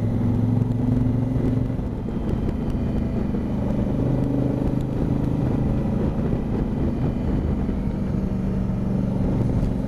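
Honda Africa Twin motorcycle engine running under way, its note holding fairly steady with small shifts in pitch, over a low rumble.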